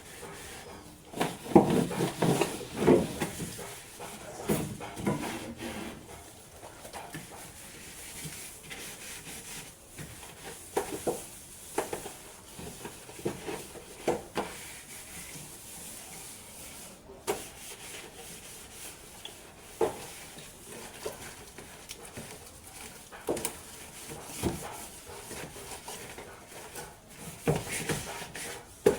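Scrubbing and wiping inside an old refrigerator by hand: irregular rubbing and scraping with scattered knocks and clatters. The busiest flurry of scrubbing comes in the first few seconds.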